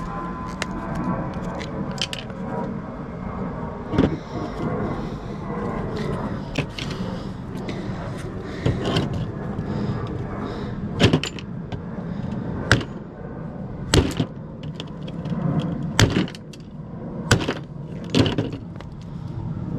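Scrap being torn down by hand: irregular sharp metal knocks and clanks over a steady scraping and rattling, as parts are pried and broken apart.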